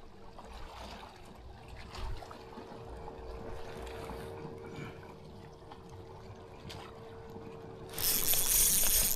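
Faint water lapping around a kayak with a few light clicks and knocks, then a loud rushing noise starts suddenly about eight seconds in.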